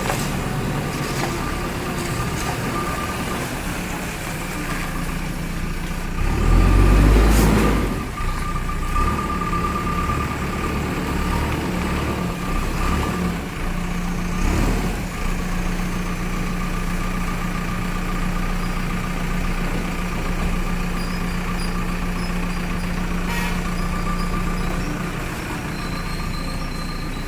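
JCB backhoe loader's diesel engine running steadily, with a louder surge about six seconds in that lasts a couple of seconds, and a smaller one about halfway through.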